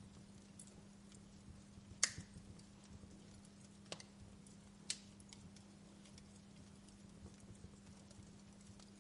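Wood fire crackling faintly, with scattered small ticks and three sharp pops: the loudest about two seconds in, two more near four and five seconds. A faint low steady hum runs underneath.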